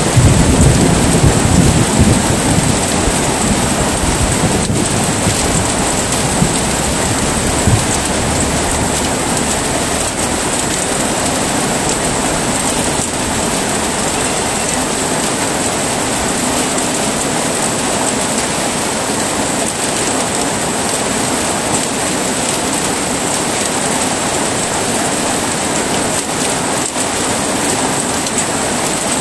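Heavy rain falling steadily, with a low rumble of thunder dying away over the first few seconds.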